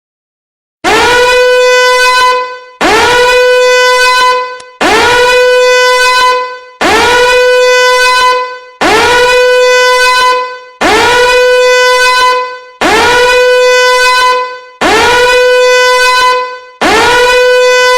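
A loud horn-like tone sounds nine times in a row. Each blast lasts just under two seconds and starts with a quick upward slide before holding one steady pitch, and they repeat about every two seconds, like an alarm or signal horn.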